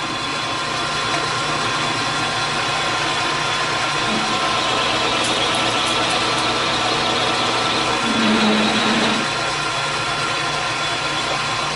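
Metal lathe running steadily, a machine hum with several steady tones.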